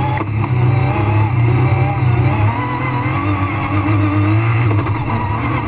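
Rally car engine heard from inside the cockpit, running hard on a stage, its revs rising and falling as it drives.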